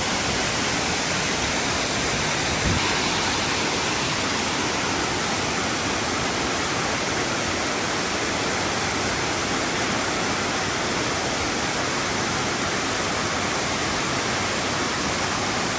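Waterfall: a steady, loud rush of heavy falling water, with a brief low thump about three seconds in.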